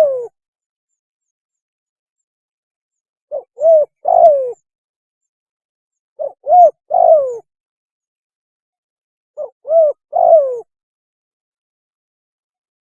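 Spotted dove cooing its mating call: three full phrases about three seconds apart. Each is a short note, a second note and a longer coo that falls in pitch.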